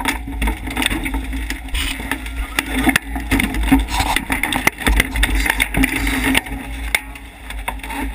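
Sprintcar's V8 engine idling, heard muffled through an on-board camera as a steady low rumble, with frequent knocks and rattles from the car.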